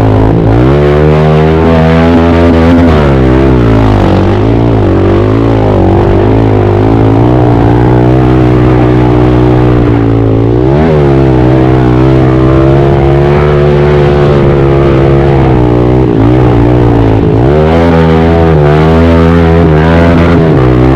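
Pit bike engine run hard through a lap, its pitch rising and falling repeatedly as the rider gets on and off the throttle. There are sharp drops and climbs about a second in, around four seconds, around ten seconds and around sixteen seconds.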